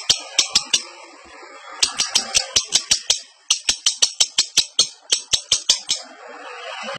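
Lovebird in breeding condition chattering: runs of rapid, sharp, high chirps at about five a second, broken twice by brief stretches of softer lower chatter.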